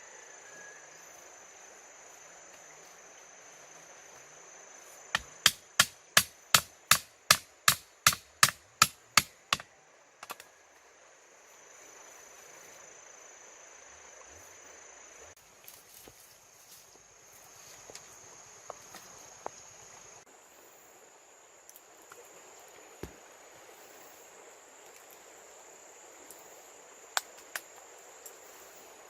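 Steady high buzzing of insects, with a quick run of about a dozen sharp chopping strikes, about three a second, a few seconds in. Later come scattered lighter knocks and clicks.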